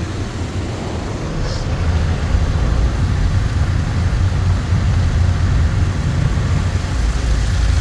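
High-pressure side blaster of a Mark VII ChoiceWash XT car wash spraying water against the car's sides, heard from inside the cabin: a steady rushing drum with a deep rumble that grows louder about two seconds in.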